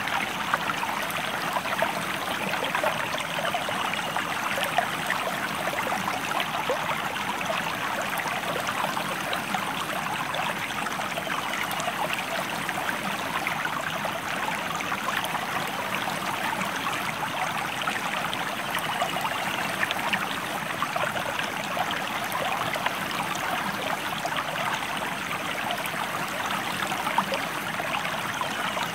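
Shallow stream of water running and babbling steadily over stones, a continuous splashing trickle.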